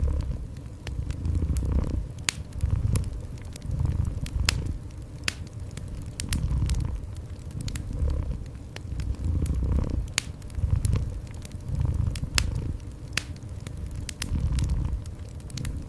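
A cat purring in low pulses that swell and fade about once a second, over a wood fire crackling with scattered sharp pops.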